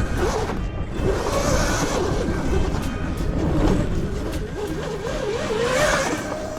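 Background music over a dirt bike being ridden, its motor pitch rising and falling.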